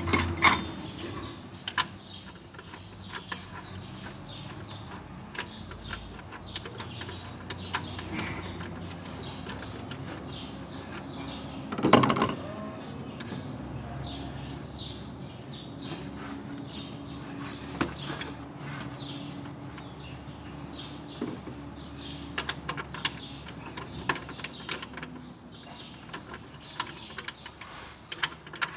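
Irregular clicks and knocks of hand tools being worked on the engine during a fan belt change, with one louder clatter about twelve seconds in.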